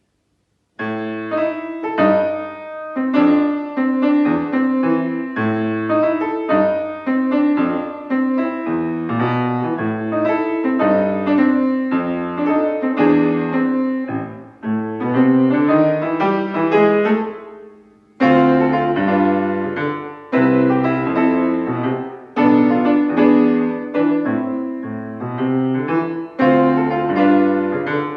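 Solo piano starting to play after a moment of silence: a melody over a lower accompaniment, with a fade and short break about two-thirds of the way through before the playing picks up again.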